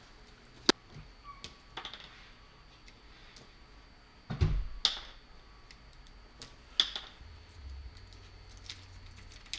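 Scattered clicks and taps of small parts and hand tools being handled at a workbench while a plug (cord cap) is prepared for wiring, with a heavier thump about four and a half seconds in.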